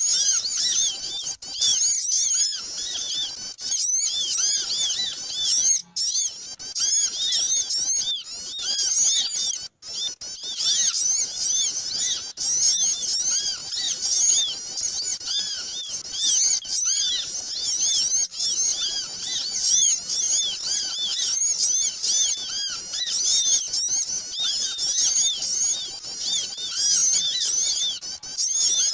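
Many small birds chattering all at once: a dense, unbroken stream of quick, high, overlapping chirps, the noisy flock call played to lure small birds in.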